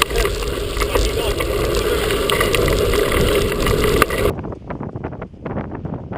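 Wind buffeting the microphone of a mountain bike speeding downhill, with the bike rattling over rough trail. A little past four seconds the wind noise cuts out abruptly, leaving a quick run of sharp rattles and knocks from the bike.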